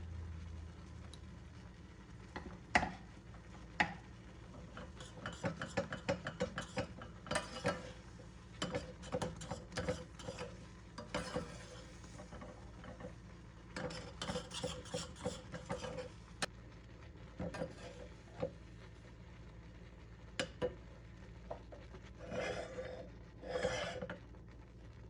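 A spoon stirring and scraping in a pot, with runs of quick clinking strokes and single clinks in between. Two longer scraping sounds come near the end.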